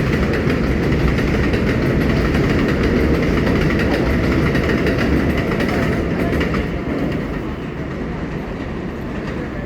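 Subway train noise: loud rumble and rail clatter that eases a little about seven seconds in.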